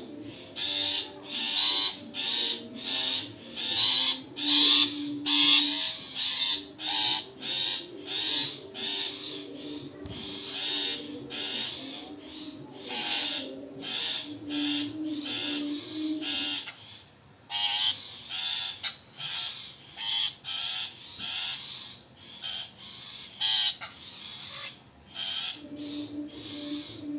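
Long-tailed shrikes (cendet) giving harsh, rasping calls over and over, about two a second, with a short pause about two-thirds of the way through. Soft background music with held low notes runs underneath.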